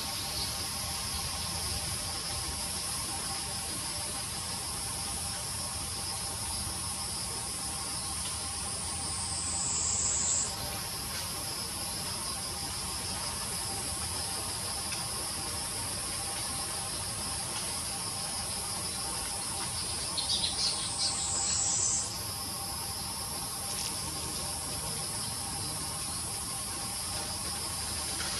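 A steady high-pitched insect drone. Twice it slides down in pitch and then jumps back up, about a third of the way in and again about three quarters in. A few quick clicks come just before the second jump.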